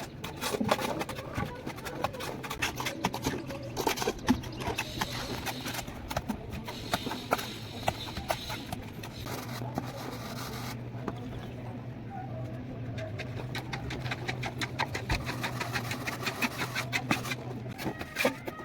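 A plastering trowel scraping and clicking rapidly as plaster is worked onto a wall, over a steady low hum.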